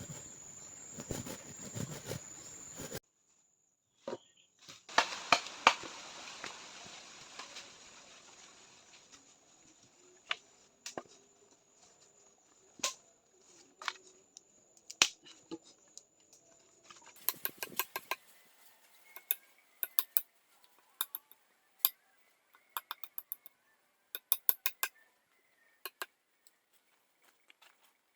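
A steady high-pitched insect-like drone, broken off abruptly about three seconds in and ending for good a little past halfway, with many scattered sharp knocks and clicks that come thicker in the second half.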